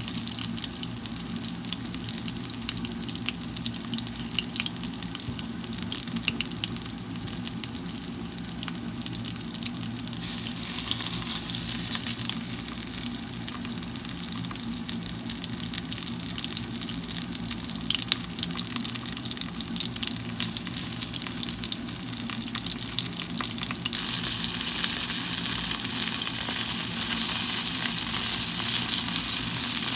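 Cheese gyoza in wonton wrappers sizzling and crackling as they fry in a pan, over a steady low hum. The sizzle grows louder about ten seconds in and again near the end.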